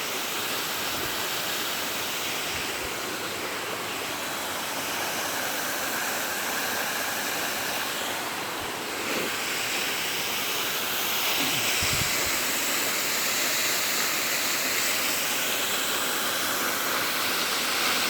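Waterfall rushing in a steady, even roar of falling water, a little louder from about two-thirds of the way through.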